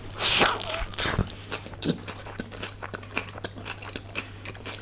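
Close-up biting into a slice of veg supreme pizza: a loud crunch of crust just after the start and another about a second in, then steady chewing with many small wet clicks.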